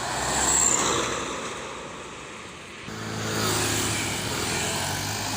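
A road vehicle passes with a swell of road and wind noise that peaks about half a second in and fades. About three seconds in the sound changes abruptly to a truck engine running steadily and loudly.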